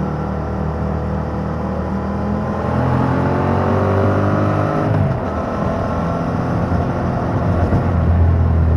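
2021 Yamaha MT-07's parallel-twin engine through its stock exhaust, pulling under throttle with the pitch rising, then dropping sharply about five seconds in as at a gear change, and pulling again near the end.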